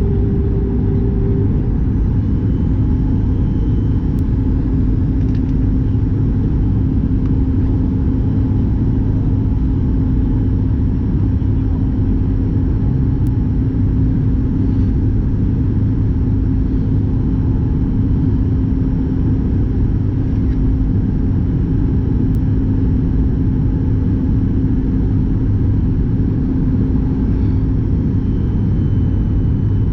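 Steady cabin drone of a Boeing 737 MAX 8-200 airliner in flight: the CFM LEAP-1B engines and the airflow make a loud, even rumble, with a steady hum over it that stops near the end.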